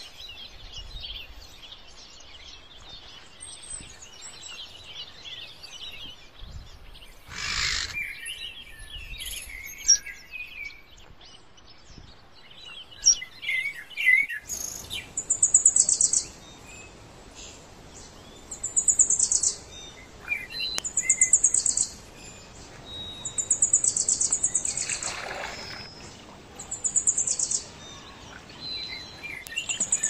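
Several birds chirping and calling. From about halfway, a loud, rapid, buzzy trill repeats every two to three seconds.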